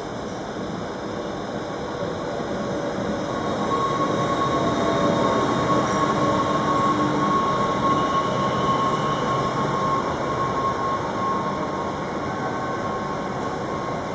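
An NS Sprinter Light Train, a Bombardier electric multiple unit, pulls in along the platform and passes close by. Its running noise grows loudest midway, with a steady high whine through the middle, and eases off toward the end.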